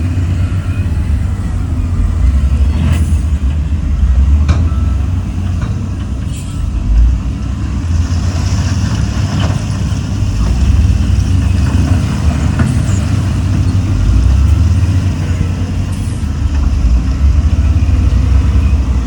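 Heavy diesel earthmoving machinery running steadily with a deep rumble, with occasional sharp knocks and clanks over it.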